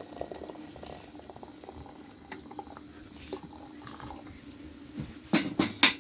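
Liquid bubbling in a cooking pot, with small crackles and pops, then a few sharp, loud knocks near the end.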